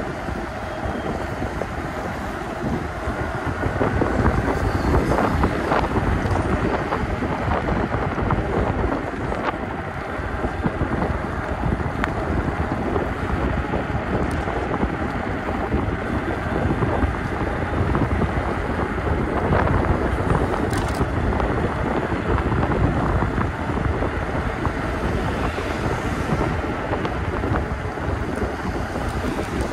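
Wind buffeting the microphone of a chest-mounted camera on a moving e-bike ridden in the rain, a steady rushing noise with a few faint clicks.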